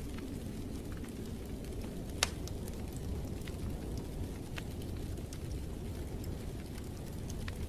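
Wood fire burning in a fireplace: a steady low rumble with scattered sharp crackles and pops, one louder pop about two seconds in.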